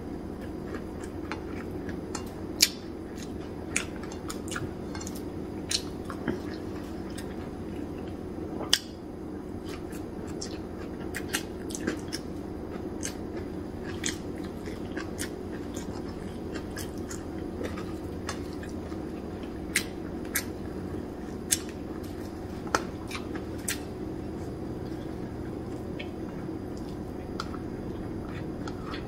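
A person chewing and biting crisp, hard-toasted dried fish (tuyo) eaten by hand, with short, sharp clicks scattered throughout, over a steady low hum.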